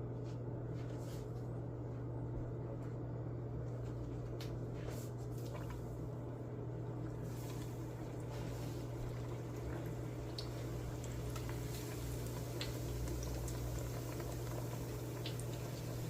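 Beignet dough deep-frying in hot oil: a sizzle with scattered small pops that grows stronger about halfway through, over a steady low hum.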